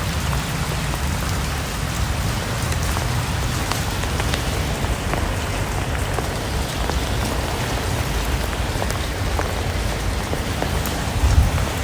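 Steady rain falling, an even patter with individual drops ticking through it.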